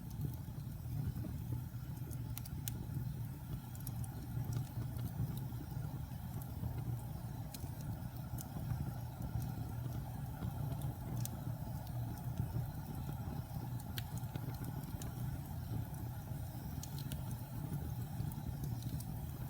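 Wood fire burning in a fireplace: a steady low rumble of flames with sparse, sharp crackles and pops from the burning logs.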